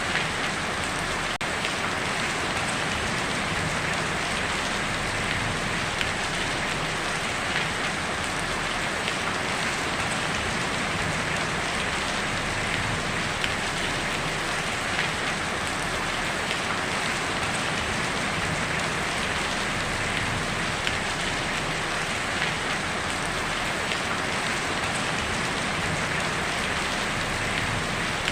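Heavy rain falling steadily on a tin roof: an even hiss with scattered sharper taps of individual drops.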